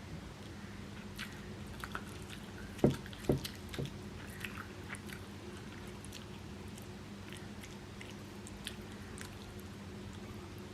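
A person chewing soft idiyappam rice noodles and vegetable korma close to the microphone, with scattered small wet mouth clicks over a faint steady hum. Three dull thumps come in quick succession about three seconds in.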